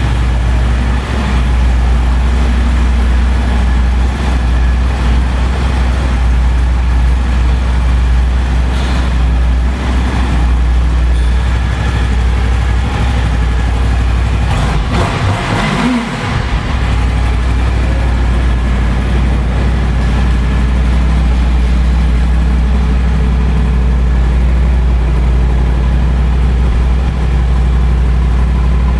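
2007 Honda VFR800 Interceptor's V4 engine idling steadily, with one brief rev about halfway through.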